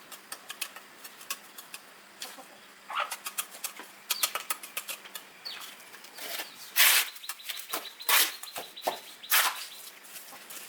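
Brick-and-mortar work: a trowel or similar hand tool scraping through cement mortar and knocking on bricks, in irregular sharp clicks and short scrapes, the loudest scrapes in the second half.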